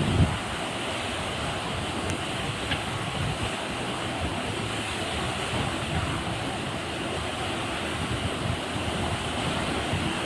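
Steady rushing road and engine noise of a moving bus, with irregular low rumbles.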